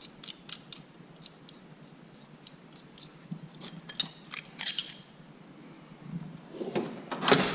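Metal hand tools being handled and sorted: scattered clicks and short rattling clinks, with a louder clatter near the end.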